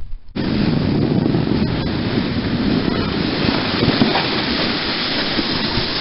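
Wind buffeting the microphone: a loud, steady, rumbling rush that starts abruptly about a third of a second in.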